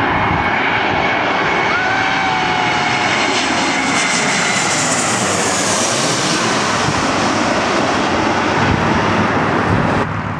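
Airliner passing close by, a loud steady engine rush with a faint whine that slowly falls in pitch as it goes past.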